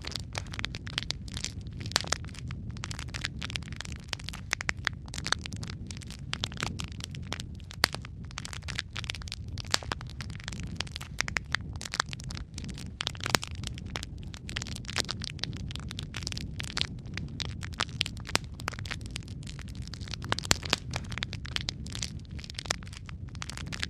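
Wood fire burning in a fireplace: irregular sharp crackles and pops, several a second with a few louder snaps, over a steady low rumble.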